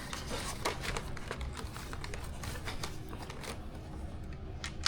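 Handling noise from assembling a foam RC plane: scattered light clicks and rustles of plastic parts and small screws being picked up and fitted.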